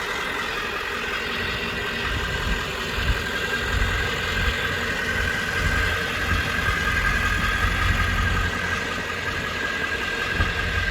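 A 1995 Ford F350's 7.3 L Powerstroke turbo-diesel V8 idling steadily.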